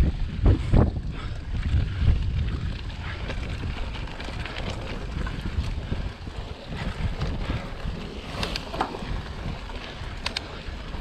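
Wind buffeting the microphone of a camera on a moving mountain bike, a steady low rumble, with a few short clicks and rattles near the end.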